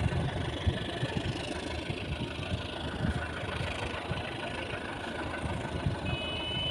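An engine running steadily with irregular low thumps. A brief high two-note tone sounds near the end.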